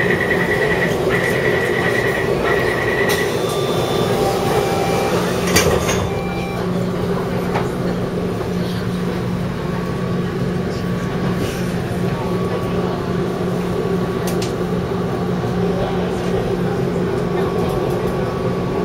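Inside a Taipei Metro C301 train: a high beep pulses on and off for about the first three seconds, like the door-closing warning, then the carriage's steady hum, whine and rumble carry on.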